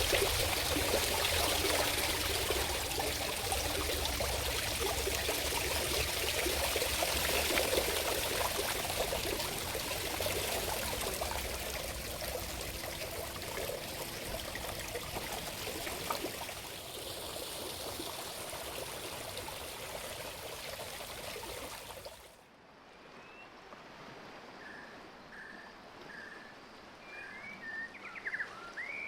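Steady rushing of a flowing river, easing a little over time. About three-quarters of the way through it cuts off abruptly to a quiet background where birds chirp: first a run of short, evenly spaced chirps, then livelier varied calls near the end.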